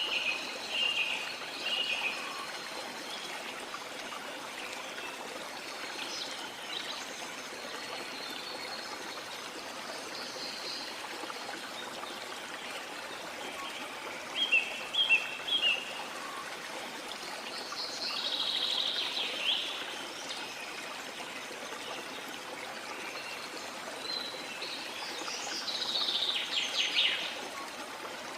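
A river flowing with a steady rush, with birds calling over it: a few short chirps near the start and in the middle, and longer trilling calls twice in the second half.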